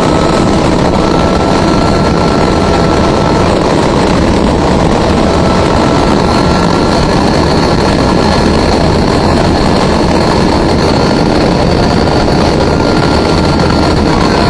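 Helicopter running, a loud steady drone of rotor and engine noise with a thin high whine over it.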